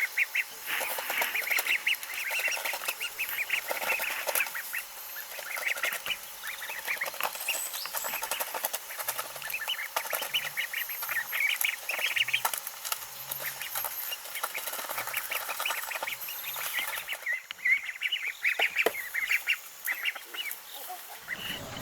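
Many ducklings peeping together, a dense chorus of short, high calls that overlap continuously.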